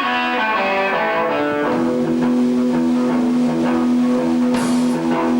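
Electric guitar played live: a falling run of picked notes, then a steady repeating low riff, with a cymbal crash about four and a half seconds in.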